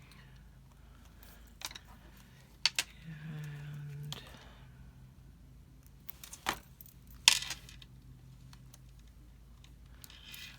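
Scattered light clicks and taps of small craft pieces and tools being picked up and set down on a desk while paper flowers are glued onto a card, the loudest a sharp click about seven seconds in. A brief low hum is heard around three seconds in.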